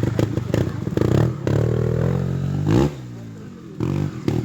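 Trials motorcycle's single-cylinder engine revved in short bursts as the rider works the throttle: rising about a second in, a sharp rev that climbs and falls a little under three seconds in, then dropping to low running before picking up again near the end.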